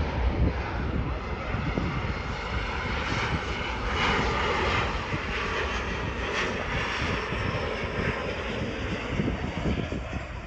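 Jet airliner engines passing, a steady rushing drone with a low rumble that is loudest about four seconds in and eases slightly toward the end.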